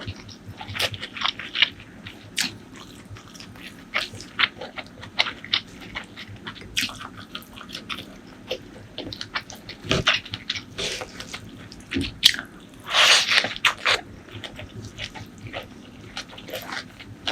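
Close-miked eating sounds: a steady run of wet chewing and mouth clicks, with a longer noisy burst about three-quarters of the way through.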